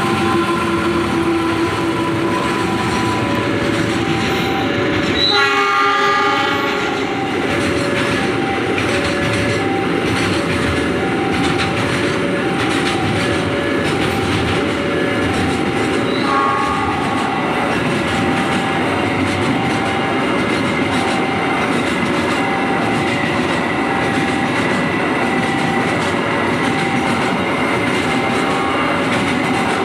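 A container freight train runs past over a level crossing with a steady rumble and clatter of wheels on the rails. The crossing's warning bell rings a regular two-tone ding-dong throughout. The locomotive horn sounds about five seconds in, and a second, shorter horn note comes around sixteen seconds.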